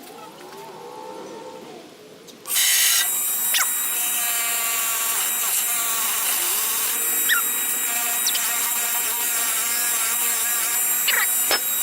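Sears Craftsman 8-inch, 1 hp bench grinder running steadily on its freshly greased bearings, a steady motor hum that starts suddenly about two and a half seconds in, with a few brief rising and falling squeaks over it.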